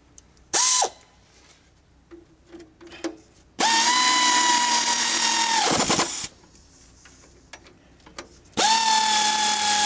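Power drill motor running in three bursts with a steady high whine: a short blip about half a second in, then two longer runs of two to three seconds each.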